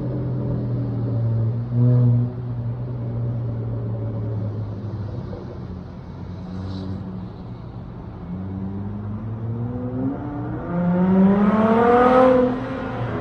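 Dodge Charger SXT's V6 through a Flowmaster Outlaw exhaust, running at low revs with a short blip about two seconds in. The engine then pulls up in revs, its note rising and growing louder to a peak near the end before dropping off as the throttle comes off or it shifts.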